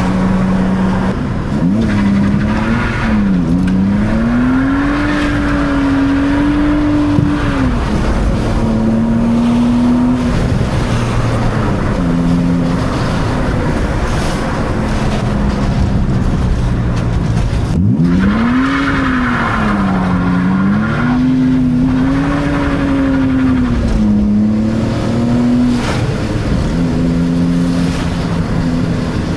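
BMW E46 328Ci's straight-six engine revving hard, its pitch swinging up and down rapidly in two stretches, about two seconds in and again after about eighteen seconds, and holding steadier notes in between, over a constant hiss of wet tyres on the road.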